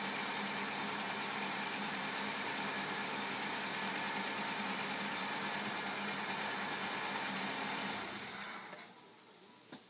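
1999 Saturn SC2's 1.9-litre twin-cam 16-valve four-cylinder engine idling steadily, heard from the open engine bay; the sound cuts off about eight seconds in.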